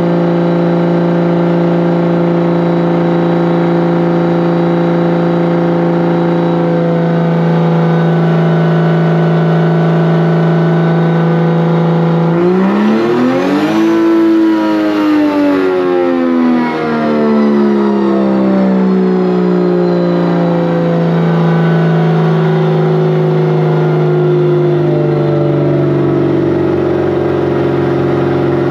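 Drift car's engine running at a steady speed, then revving up quickly about twelve seconds in and winding slowly back down over roughly ten seconds.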